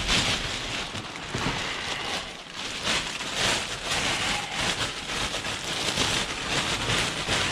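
Plastic trash bags rustling and crinkling as items are dug out of them, an irregular crackling with small knocks.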